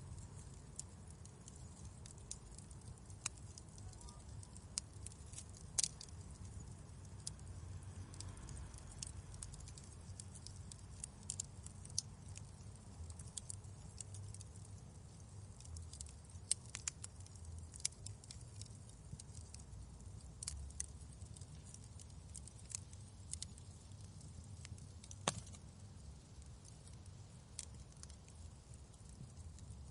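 Fireplace crackling: irregular sharp snaps and pops of burning wood over a low steady rumble, with one louder pop near the end.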